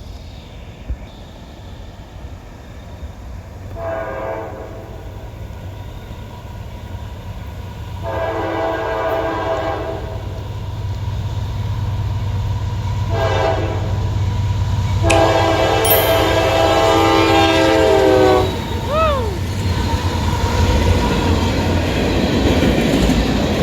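CSX locomotive air horn sounding four blasts, the second and last long, as the train approaches fast; right after the last blast the horn's pitch drops as the locomotive passes. The rumble and wheel noise of the train rushing by grow louder toward the end.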